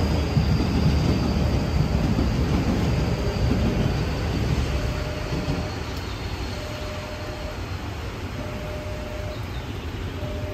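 A Nankai electric train running through the station without stopping, a low rumble with a faint high whine that slowly falls in pitch, dying away after about four seconds. From about five seconds in, a short electronic tone repeats about once every second and a half.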